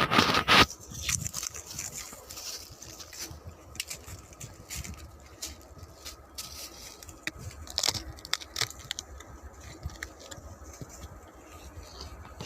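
Handling noise from the phone that is filming as it is moved about and set down: rustling, scraping and scattered clicks, with a loud rustle right at the start.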